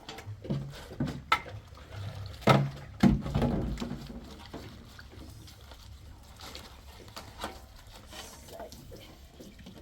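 A few sharp knocks and clatters, the loudest two about two and a half and three seconds in, followed by fainter scattered clicks.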